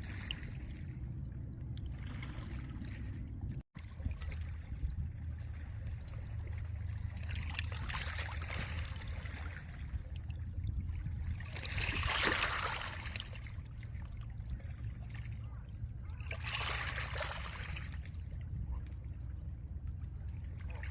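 Small lake waves breaking and washing up over a pebble shore: three swells of surf, the loudest about twelve seconds in, over a steady low rumble of wind and water. The sound drops out for an instant near four seconds in.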